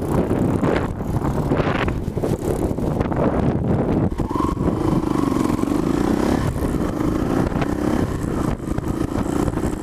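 Small Honda 70 dirt bike engine running as the rider pulls away in gear, its note rising and falling with the throttle over a steady rumble.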